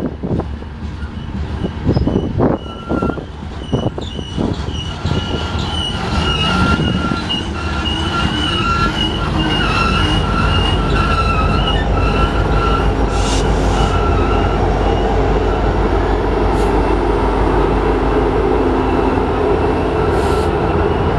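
Union Pacific grain train's cars rolling past. The wheels knock sharply a few times in the first seconds, then flanges squeal in a wavering high pitch through the middle, over a steady low rumble that grows louder toward the end.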